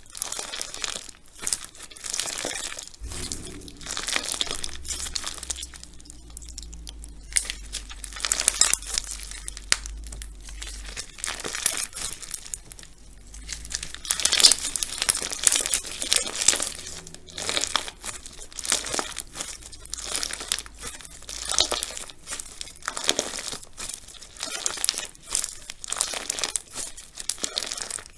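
Crunchy slime being squeezed and pressed: dense runs of small crackles and pops that come in uneven waves.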